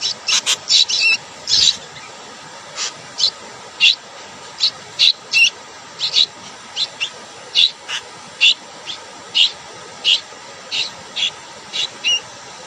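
Bird chirping: short, high calls repeated irregularly, about one or two a second, over a steady hiss.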